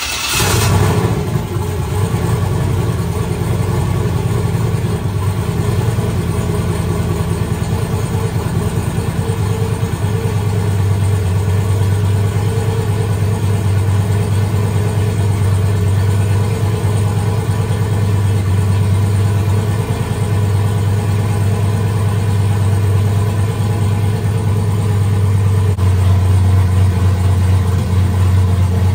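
Turbocharged 5.3 LS V8 flaring briefly just after starting, then settling into a steady idle. It is running with a newly fitted cam sensor to see whether that cures its rough running.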